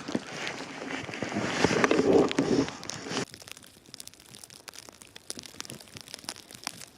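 Close crunching and rustling of snow and winter clothing, loudest about two seconds in, that cuts off suddenly after about three seconds. After that there is only a quieter patter of faint, scattered ticks from falling snow.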